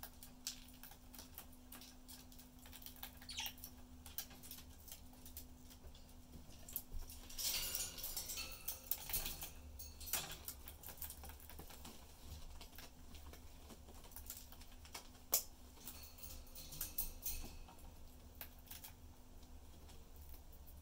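Budgies in their cage making small scattered clicks, taps and scratches as they climb, peck and nibble, with a busier spell of scratchy clicking around the middle.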